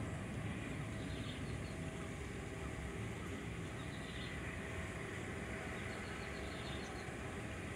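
A steady low rumble, easing off slightly, with a few faint high chirps over it.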